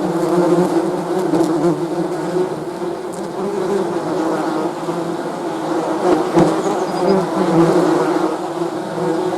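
Many bees buzzing together, a steady droning hum with several overlapping pitches that waver slightly.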